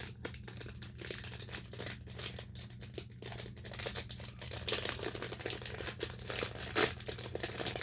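Packaging crinkling and rustling as a small toy is unwrapped by hand, in a run of irregular crackles.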